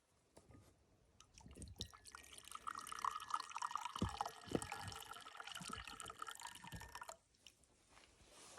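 Water trickling and dripping, a cluster of small splashes building up about a second in and stopping abruptly near the end.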